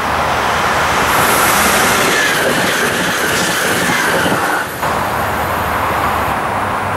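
SNCF AGC bimode regional train passing close on curved track: rushing wheel-and-rail noise with a high wheel squeal. The sound cuts off abruptly about two-thirds of the way through, leaving a steadier rushing noise.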